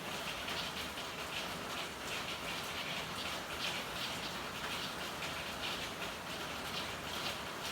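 Steady rain falling, with frequent irregular drips pattering over the continuous hiss.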